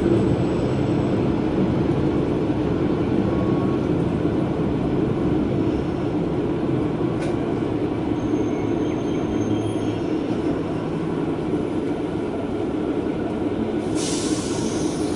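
Sankō Line KiHa 120 diesel railcar running along the line, heard from inside: a steady rumble of engine and wheels on rail. A faint click comes about halfway through, and a short hiss comes near the end.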